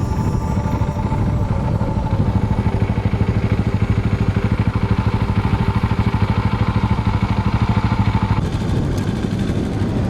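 Vehicle engine running at low revs with an even pulsing beat. A higher steady tone drops out about eight seconds in.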